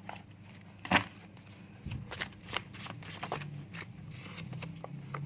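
Playing-size tarot/oracle cards being handled and shuffled: a string of sharp clicks and short papery rustles, the loudest about a second in.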